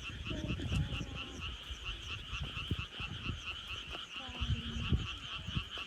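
A chorus of many frogs calling at once: a dense stream of rapid, overlapping croaks that never lets up, with a few low thumps underneath.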